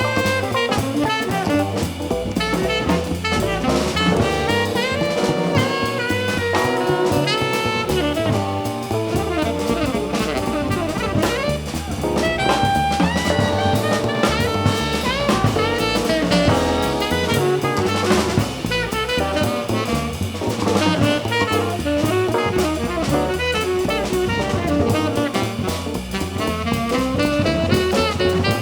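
Live jazz band playing, with a saxophone or other horn line over bass and drum kit.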